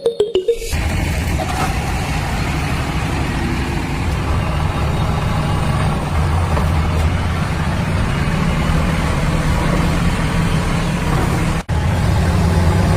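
Diesel truck engine idling steadily with a low hum, broken by a momentary cut-out near the end.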